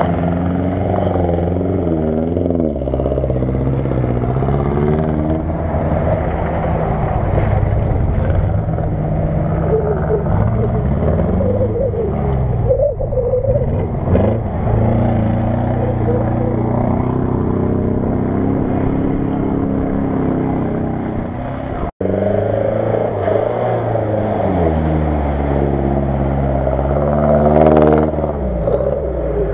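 A 4x4 SUV's engine revving hard again and again, its pitch rising and falling as it works through deep mud. The sound breaks off for an instant about two-thirds of the way in.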